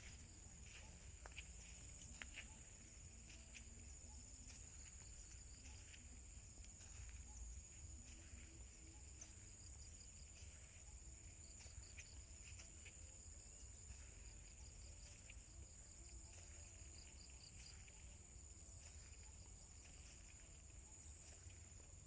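Faint insect chorus: a steady high-pitched trill held throughout, with a second insect chirping in short rapid trains now and then. Scattered light clicks and a low rumble lie beneath.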